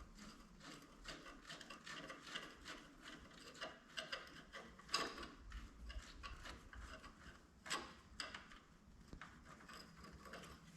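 Faint ratchet wrench clicking in quick, uneven runs as an engine mounting bolt is backed out.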